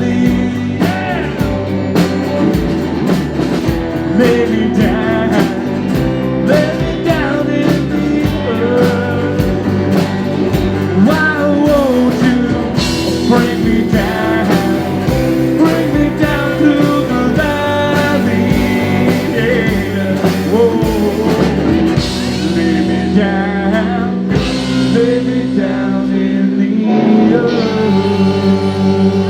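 Live rock band playing an instrumental passage with electric guitar lead bends over bass and drums.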